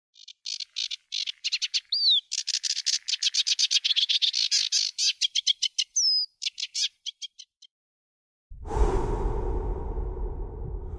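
A small songbird singing: rapid trills of high chirps with two short downward-sliding whistles, stopping about seven and a half seconds in. About a second later a low, droning swell of music comes in suddenly.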